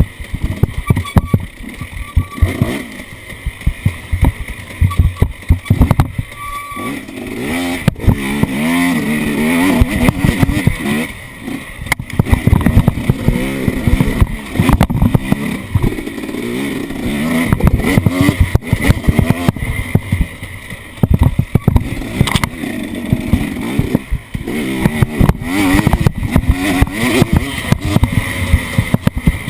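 An off-road vehicle's engine revving up and down as it is driven, with frequent sharp knocks and rattles throughout.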